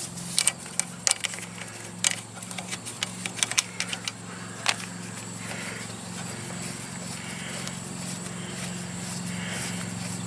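Sharp metallic clinks and taps of hand tools working a hydraulic hose fitting on a tractor, many in the first half, then fewer, over a steady low hum.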